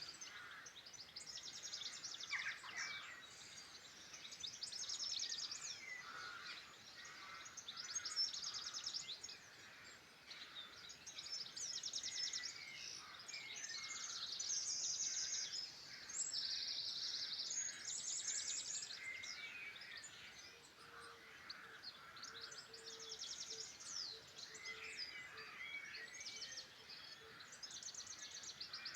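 Several songbirds singing at once, overlapping phrases of rapid trills and chirps following one another every few seconds.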